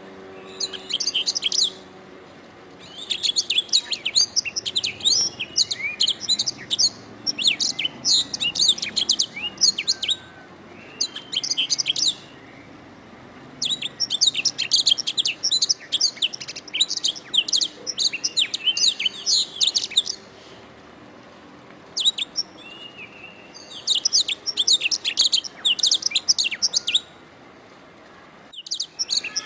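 Domestic canary singing: long phrases of rapid, high chirps and rolling trills, broken by pauses of a second or two.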